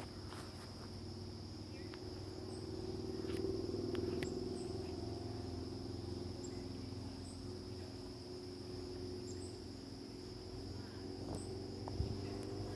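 Insects, likely crickets, trilling in one steady high-pitched drone. Beneath it runs a low hum that swells a few seconds in and then eases, with a few faint clicks.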